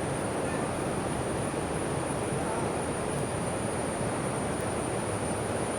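Steady rushing roar of a large waterfall heard from the forest path, with insects droning on one constant high pitch.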